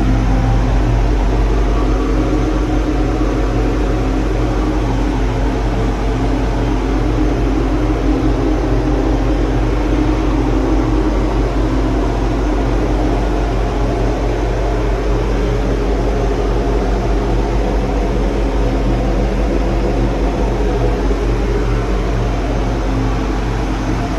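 Ship's engine-room machinery running: a loud, steady, deep drone with a low hum and a rushing noise above it, unchanging throughout.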